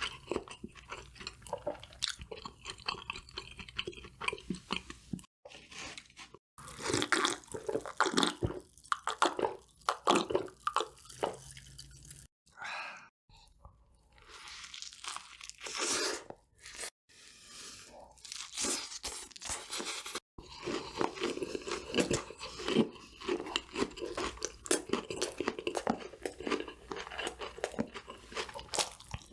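Close-miked crunching and chewing of crispy fried food, with dense runs of crackly bites and chews broken by a few sudden brief drops to silence.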